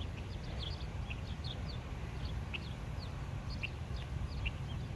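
Small birds chirping, many short high notes every fraction of a second, over a steady low rumble.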